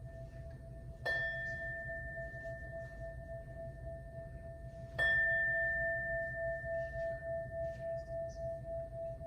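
Singing bowl struck twice, about a second in and again about four seconds later. Each strike rings on in a long, slowly fading tone that wavers steadily as it sustains.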